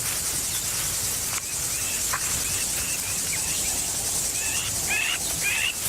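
Steady high chirring of crickets or similar insects as an outdoor night-and-bush ambience, with a bird's short chirps several times in the second half.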